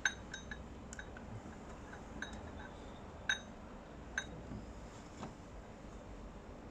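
Scattered light metallic clinks and ticks of hand tools and bolts against engine-bay metal, about seven short, ringing clicks spread a second or so apart. The loudest come at the very start and about three seconds in.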